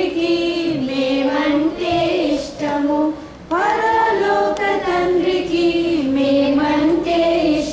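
A group of children singing together, in long held notes with a short break between phrases about three seconds in.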